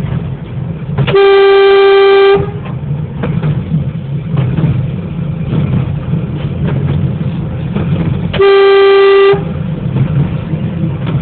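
A small diesel locomotive's horn sounding two loud single-note blasts, each about a second long and some seven seconds apart. Between the blasts the locomotive's diesel engine runs with a steady low rumble.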